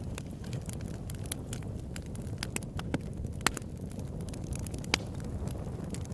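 Campfire crackling: irregular snaps and pops over a low steady rumble, with two louder pops about three and a half and five seconds in.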